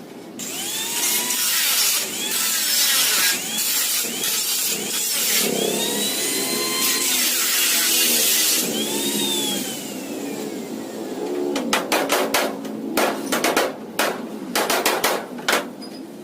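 A power tool running against sheet-metal body panels for about eight seconds, its whine rising and falling, then a rapid run of sharp hammer blows on the metal.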